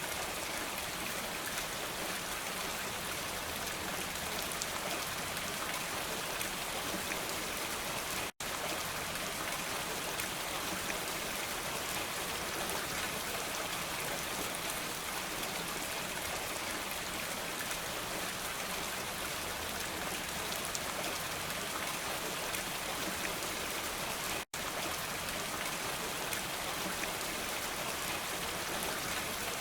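Steady rain, an even hiss of drops with no thunder, which cuts out for an instant twice, about 8 and 24 seconds in.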